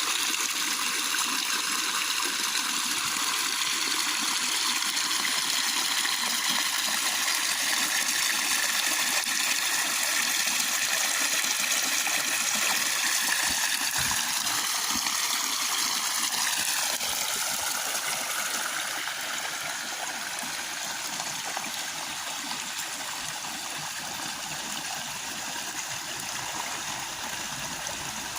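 Heavy rain pouring down in strong wind, a steady hiss of falling water that eases slightly past the middle.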